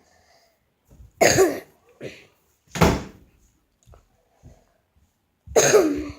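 A person coughing three times in short, harsh bursts, the last one a little longer.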